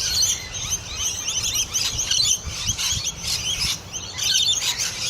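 A large flock of lorikeets calling all at once: a dense, unbroken chatter of many short, high-pitched calls overlapping one another.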